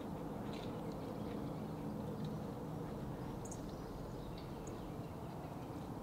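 Yard ambience: a steady low rumble with a few faint, short, high bird chirps scattered through it.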